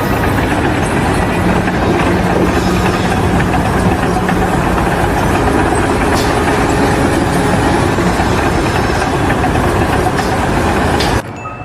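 Loud, steady engine noise, as from heavy machinery running. It cuts off suddenly near the end.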